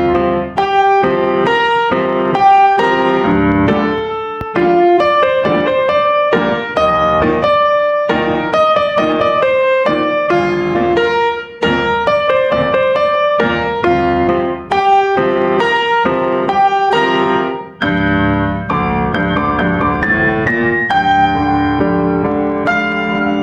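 Background piano music: a run of separate notes over chords, getting fuller and more sustained near the end.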